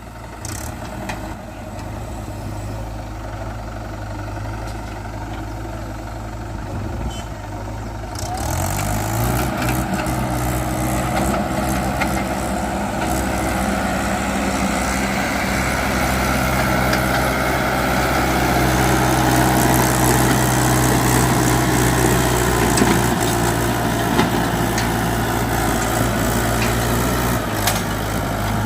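Swaraj 843 tractor's three-cylinder diesel engine running at low revs, then revving up about eight seconds in and holding the higher revs, louder, before easing off shortly before the end.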